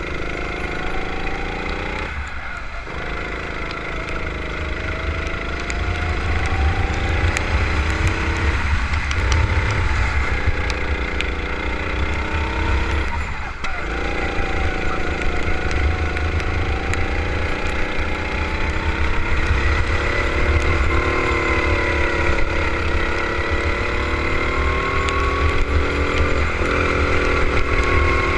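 Go-kart engine heard onboard on a lap, its pitch climbing along the straights and dropping off sharply three times as the driver lifts for corners, over a heavy low rumble.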